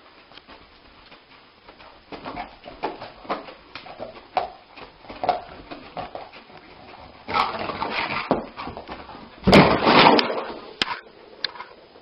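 A dog whimpering and yelping in a run of short sounds, then two louder, rougher outbursts, one past halfway and one near the end.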